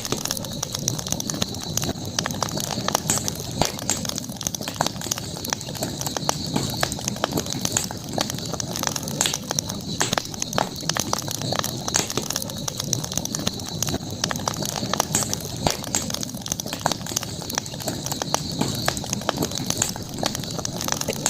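Campfire crackling with many irregular sharp pops and snaps, over a steady high-pitched hiss.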